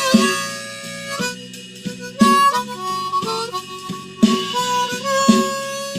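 Blues harmonica playing a fill of long held notes, one bent up in pitch partway through, over a drum and bass backing track.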